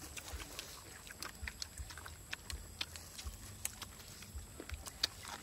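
Close-up chewing and biting of crispy fried chicken wings: irregular crunchy crackles and wet mouth clicks.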